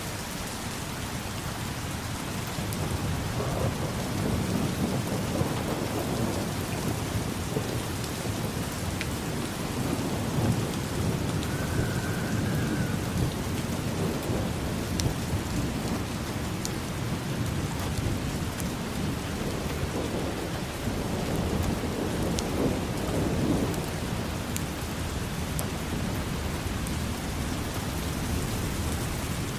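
Steady rain falling on hard surfaces with scattered drop taps, and low rolling thunder that swells and fades three times.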